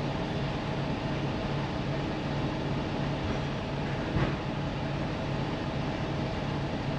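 Steady drone of a semi truck's engine and road noise heard inside the cab while driving, with one brief bump a little over four seconds in.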